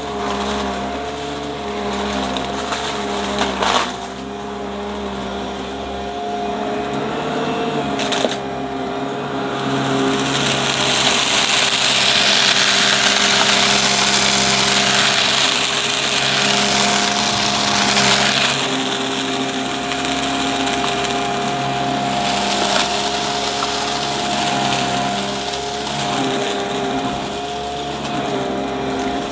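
Upright vacuum cleaner running with a steady motor whine. Its rushing air noise swells for several seconds in the middle, and there are two sharp knocks in the first third.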